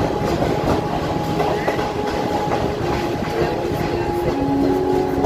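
Passenger train rolling along, heard from an open window of a carriage: a steady rumble of wheels on rail with a light clatter of rail joints and faint steady tones over it.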